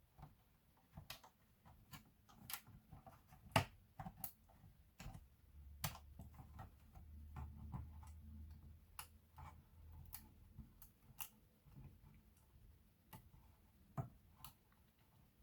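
Quiet, irregular clicks and taps of small plastic and metal laptop parts and tools being handled during disassembly or reassembly, one sharper knock a few seconds in. A faint low hum sounds through the middle.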